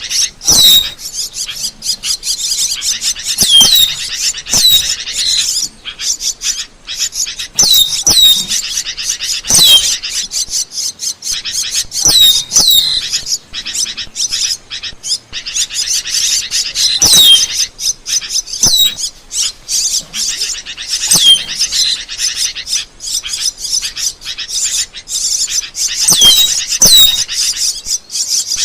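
Asian glossy starling singing: a continuous, busy stream of sharp clicks and chirps broken by short whistles that slide downward, repeating in clusters every second or two.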